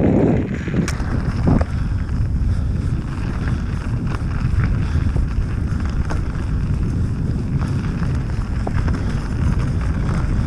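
Steady low wind rumble buffeting the microphone while riding a mountain bike, with bike and trail noise under it and a few sharp clicks in the first two seconds.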